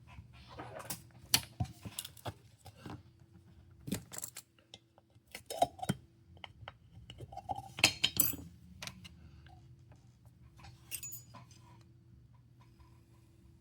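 Scattered clicks and light clinks of small tools and phone parts handled on a repair bench during smartphone reassembly, over a faint steady hum.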